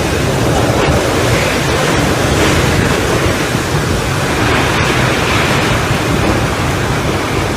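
Storm wind buffeting the microphone: a loud, steady rushing noise with a heavy low rumble, with a few faint sharp ticks.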